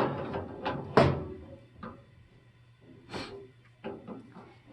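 Metal knocks and clinks of a wrench working on a threaded gas pipe fitting as it is loosened: a handful of separate sharp knocks, the loudest about a second in.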